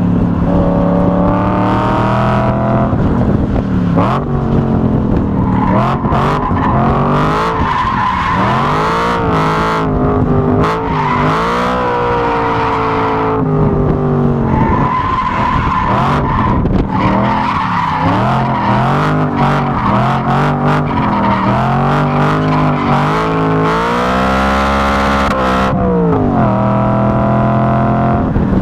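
BMW E92 M3's V8 engine revving hard on track, its pitch climbing through the gears and dropping on each shift and braking downshift. Tyres squeal at times through corners, and wind buffets the outside-mounted microphone.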